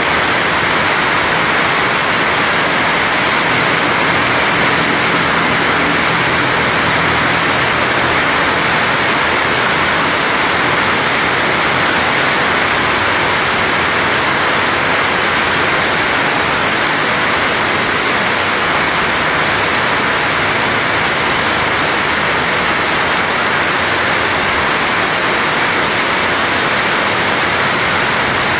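Heavy tropical rain pouring down, a loud, steady hiss without let-up, with a faint low hum under it for the first several seconds.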